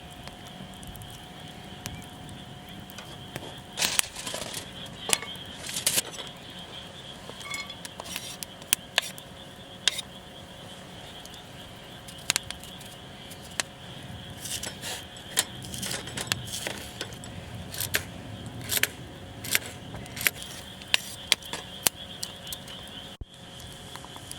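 Irregular sharp clinks of cutlery against tableware during a meal, scattered through the stretch, over a steady high chirring of insects.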